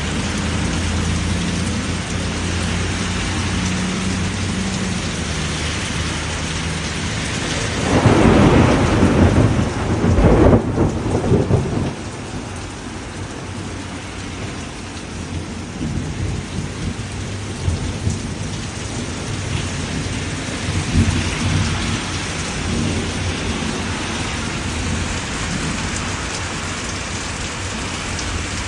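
Thunderstorm: steady rain falling throughout. A loud rumble of thunder builds about eight seconds in and lasts about four seconds. Fainter low rumbles follow later.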